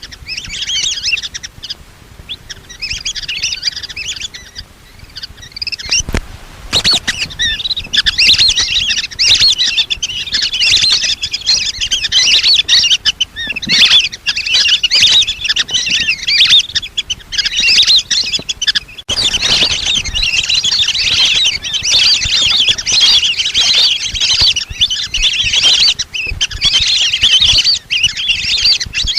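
A flock of lesser whistling ducks giving their high, squeaky whistled calls, many birds overlapping. The calls are scattered at first and become a dense, unbroken chorus from about six seconds in.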